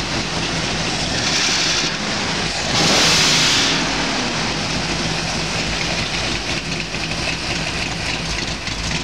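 Muffled 482 cubic inch Ford FE big-block V8, a stroked 1968 427 side-oiler, running on its engine stand. It is revved twice briefly, about 1.5 s and 3 s in, the second rev louder, then settles back to a steady idle. The owner says it is running too rich on oversized carburetor jets.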